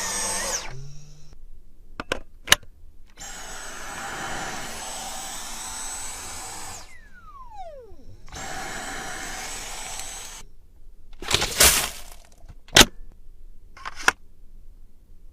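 Vacuum cleaner motor switched on and off several times, running with a high steady whine. It stops just after the start, runs for a few seconds, winds down with a falling pitch, then runs again briefly. Sharp clicks and knocks fall between the runs and near the end.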